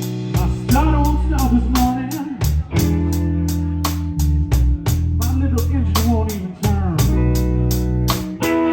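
Live blues band playing an instrumental passage: electric guitar lead with bent notes over bass guitar and a steady drum beat with regular cymbal strokes.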